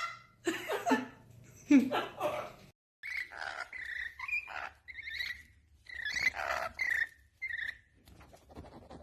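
A pet bird calling in a string of short chirps and whistles, each under half a second, preceded by two quieter voice-like sounds.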